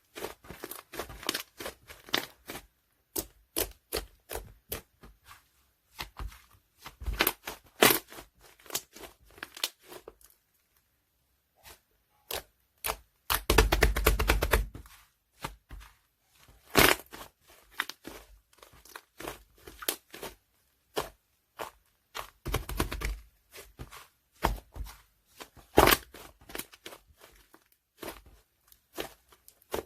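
White clay slime being squished, poked and stretched by hand: a string of sticky clicks and crackles, with a longer, denser crackling stretch about halfway through.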